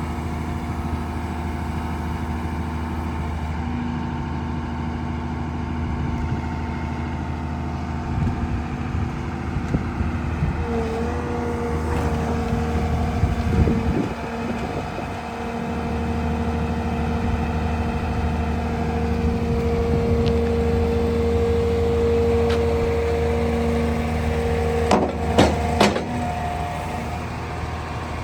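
Caterpillar M322C wheeled material handler's diesel engine running steadily. A steady whine comes in about ten seconds in and stops a few seconds before the end. There are a few sharp clanks about halfway through and again near the end.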